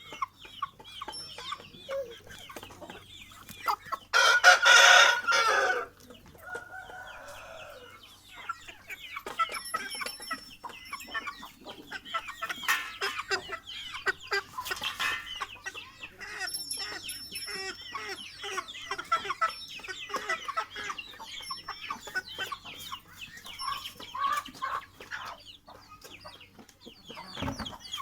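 Aseel chickens clucking, with a rooster crowing loudly once about four seconds in and a fainter crow right after it.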